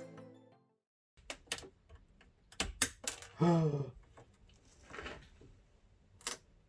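Background music fading out, then scattered sharp clicks and knocks of plastic plumbing fittings being handled and pushed together, with a brief vocal sound in the middle.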